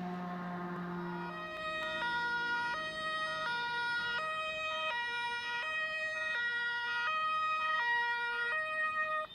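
Two-tone siren of a German fire engine (Martinshorn) alternating evenly between a high and a low note, each held about three quarters of a second, the classic "tatü-tata". It takes over about a second and a half in, after a steady low tone.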